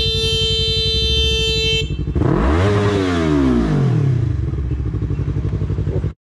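Motorcycle engine running, with a horn held for nearly two seconds at the start; about two seconds in the engine note swells up and back down. The sound cuts off abruptly near the end.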